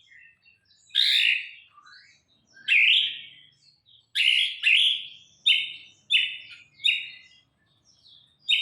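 A murai songbird singing a string of short, loud whistled phrases with brief pauses between them; the last several phrases are repeated alike.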